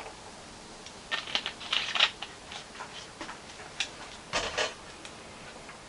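Light clicks and clinks of a soda container and a glass being handled while a drink is topped off with soda: a cluster of taps about a second in, and a short clatter near the end.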